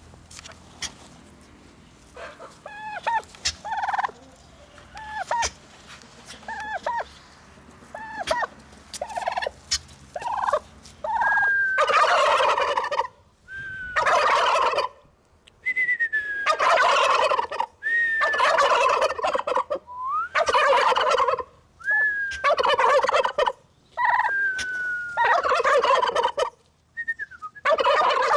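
Domestic turkey gobbling. Softer short calls come first, then from about eleven seconds in a run of loud rattling gobbles about every second or two, most of them just after a short falling whistle.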